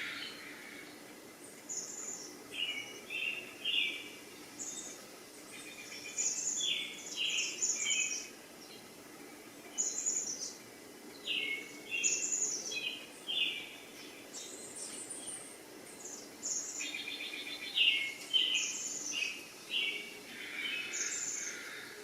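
Birds chirping: short, repeated call phrases about every second, over faint steady background noise.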